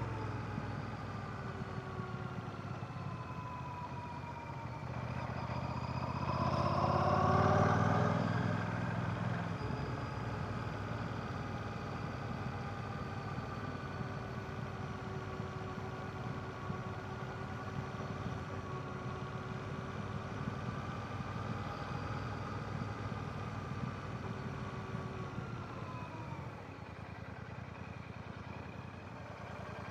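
Royal Enfield Classic 650's 648 cc air/oil-cooled parallel-twin engine running under way. The note falls for the first few seconds, rises steeply under throttle to its loudest about a quarter of the way in, then holds fairly steady at cruising speed and eases off slightly near the end.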